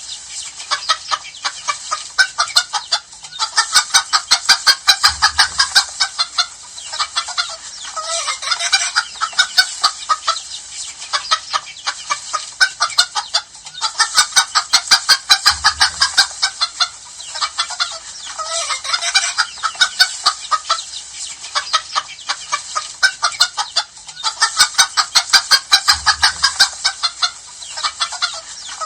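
A flock of chickens clucking and cackling continuously, many calls overlapping in surging bursts, the same stretch seemingly repeating about every ten seconds.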